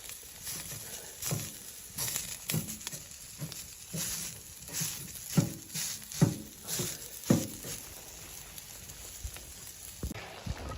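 Footsteps crunching through snow, roughly a step every 0.6 to 0.8 seconds, stopping about three-quarters of the way through, with one more soft crunch near the end.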